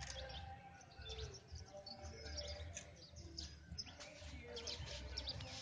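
Several small birds chirping and calling, many short high calls overlapping, faint, over a low steady rumble.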